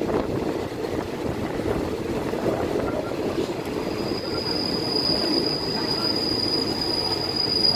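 Passenger train carriage rumbling as it runs into a station. About halfway through, a high, steady squeal from the brakes and wheels sets in as the train slows.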